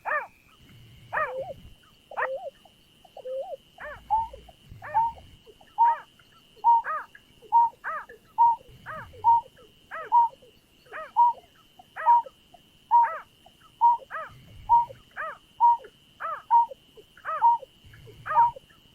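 Repeated hooting calls of the bird known in Vietnamese as nhát hao, each a short note dropping in pitch. They come irregularly at first, then settle from about four seconds in into a quick even series of roughly one and a half calls a second, over a thin steady high whine.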